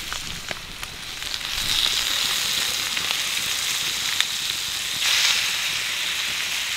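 Pig intestines sizzling and frying on a flat stone griddle over a wood fire. The hiss grows louder about a second and a half in and swells again around five seconds, with a few light clicks as the pieces are pressed and turned with two knives.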